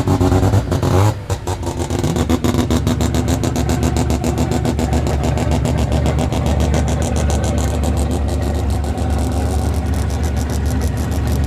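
Mazda RX2's naturally aspirated 13B rotary engine revs up and drops off about a second in, then runs steadily with a fast, even pulsing.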